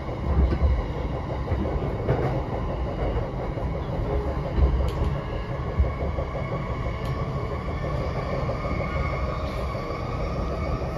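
Running sound of a JR E233-7000 series electric train heard from inside the passenger car: a steady rumble of wheels on rail with a faint motor whine, and a few sharp clicks along the way.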